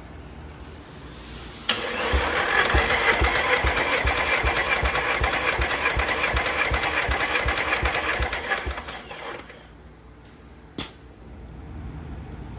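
Nissan SR20DET turbocharged four-cylinder engine being cranked over on its starter motor for a compression test: a steady whirr with an even run of pulses, about three a second, lasting about eight seconds, then stopping. A single sharp click follows shortly after.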